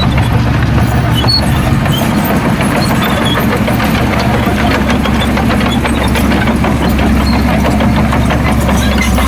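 Heavy diesel engine of a bulldozer or dump truck running steadily, with a fast clatter over the drone.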